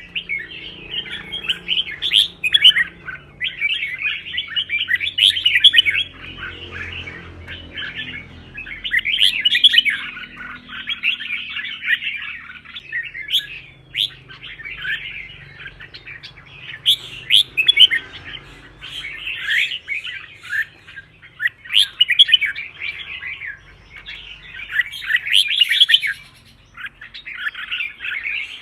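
Red-whiskered bulbul singing its competitive fight song: bursts of quick, bright warbled phrases, one after another every two or three seconds with short pauses between.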